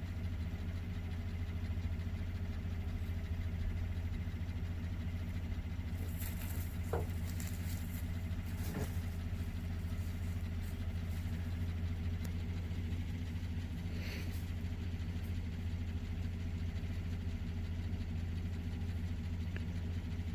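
Pickup truck engine idling steadily, with a few short clicks or knocks about a third of the way in and again past the middle.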